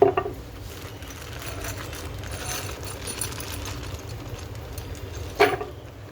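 Two sharp knocks, one at the start and one about five seconds in, with light clicking between them, from objects being handled, over a steady low hum.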